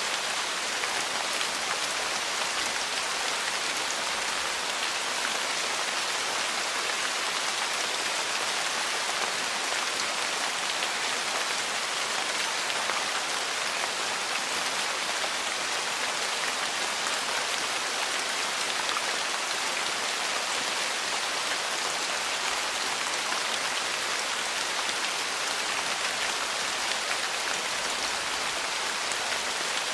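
Steady rain falling on a porch: a dense, even hiss of drops that holds the same level throughout.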